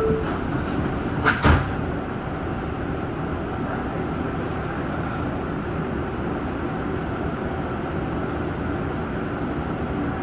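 R188 subway car doors sliding shut with one loud thud about a second and a half in, after the 'stand clear of the closing doors' announcement, followed by the steady running noise of the train.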